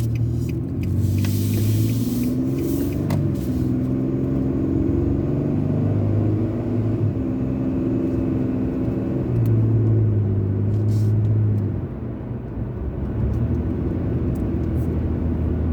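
A car driving on the road: steady engine hum and road noise, the engine note shifting in pitch as it goes, swelling for a couple of seconds about two-thirds of the way through and then easing off.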